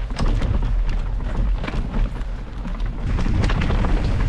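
Mountain bike riding over rough trail: wind rumbling on the camera's microphone, with scattered sharp rattles and clicks from the bike.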